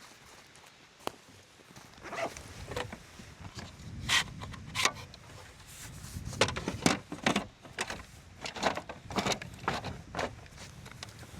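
Irregular clicks and knocks from handling on a small boat's deck, busiest in the second half.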